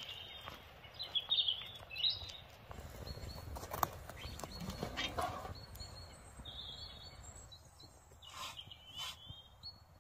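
Small birds chirping in the woods, with scattered light clicks and knocks from handling food and cast-iron cookware, two of them sharper near the end.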